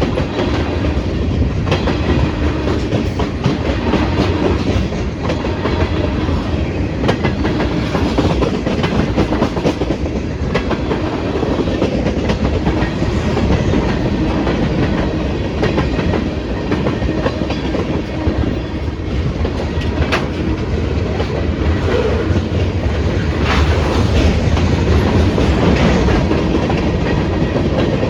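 Freight train cars rolling past at close range: a steady rumble of wheels on rail, with frequent clicks and clacks as the wheels cross rail joints.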